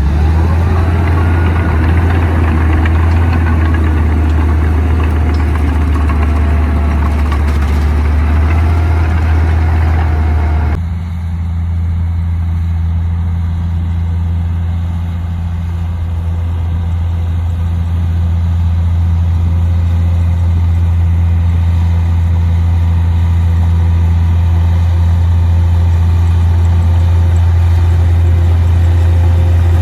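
Komatsu D58P bulldozer's diesel engine running steadily with a deep hum, with wavering higher squeals over it at first. About eleven seconds in the sound changes abruptly to a steadier, plainer low hum.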